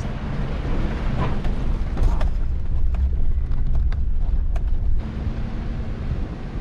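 4x4 truck driving over a rough dirt trail: a low engine and tyre rumble with scattered knocks and clicks from rocks and the suspension. About five seconds in, the rumble eases to a steadier low hum.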